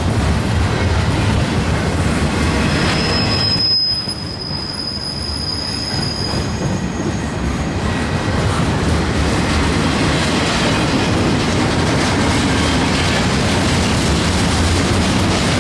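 Freight train rolling past close by, its steel wheels making a steady loud rumble on the rails. A high, thin wheel squeal rings out for about three seconds, a few seconds in.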